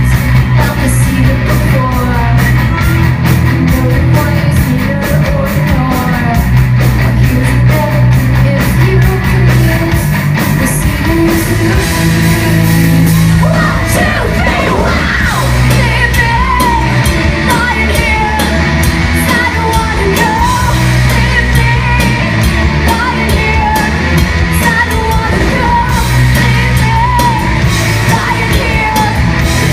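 Live alternative rock band playing at full volume, with distorted electric guitars, bass and drums behind a woman singing lead.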